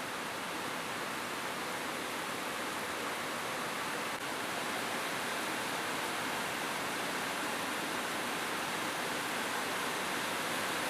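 Steady rain falling on a roof: an even, unbroken hiss of many drops, with no thunder.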